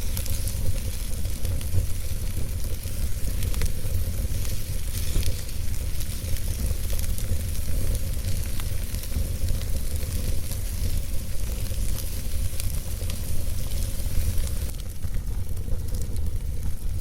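Wood fire burning in a fireplace: a steady low rumble of flames under a constant hiss, with frequent small crackles and pops of the burning logs.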